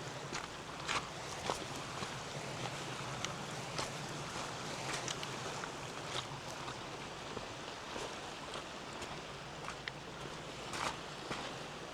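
Steady outdoor hiss of wind and lake water, with scattered light clicks and crunches of footsteps on the trail.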